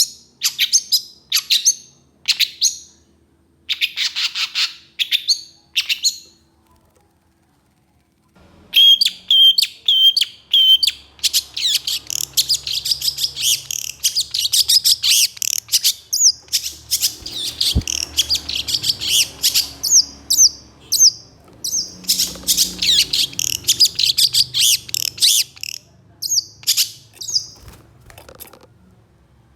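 Long-tailed shrike (cendet) singing in harsh, rapid bursts: a run of short scratchy calls, then a silence of about two seconds. After that comes a dense, fast stream of harsh chattering and whistled notes, which thins to scattered calls near the end.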